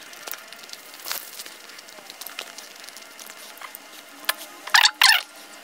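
Close-miked eating sounds: a man chewing a mouthful of roti and curry, with wet mouth clicks and smacks, and a cluster of louder sharp clicks about five seconds in.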